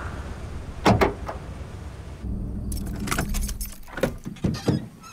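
A large sedan's engine idling, with two sharp knocks about a second in; then the ignition key is turned off, keys jingling on the ring, and the engine stops near the end.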